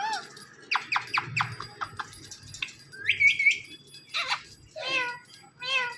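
Ring-necked parakeet calling: a quick run of sharp chirps about a second in, a rising squawk around three seconds, then several wavering calls near the end.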